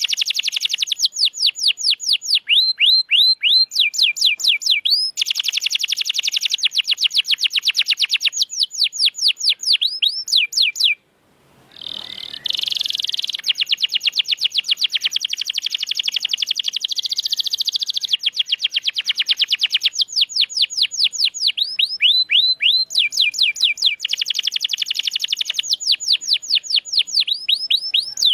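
Domestic canary singing: fast trills of rapidly repeated notes and runs of quick rising whistles, with a brief break about eleven seconds in before the song picks up again.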